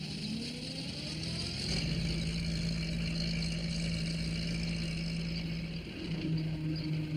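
A small van's engine sound effect: it rises in pitch as the van pulls away, then runs at a steady, even hum. The pitch shifts slightly about six seconds in.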